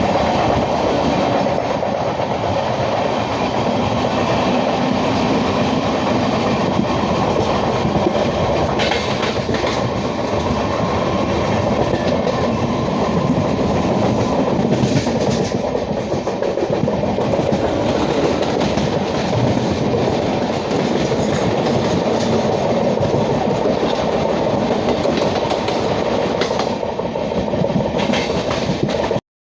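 LHB passenger coaches of an Indian Railways express running at speed: a steady rumble of wheels on rail with a clatter over rail joints. The sound cuts out abruptly for a moment just before the end.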